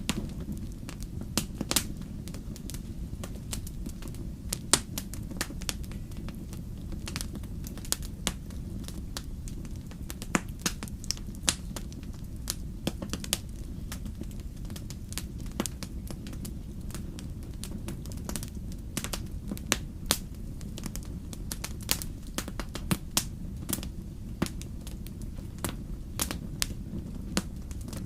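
Burning firewood crackling, with irregular sharp pops and snaps, some louder, over a steady low rumble.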